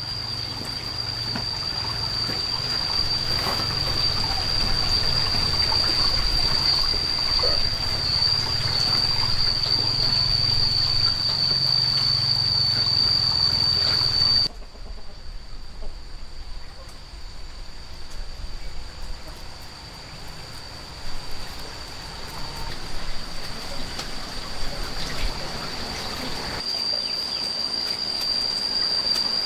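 Outdoor ambience of trickling water under a steady high-pitched whine. The whine cuts out abruptly about halfway through, leaving quieter background, and comes back near the end.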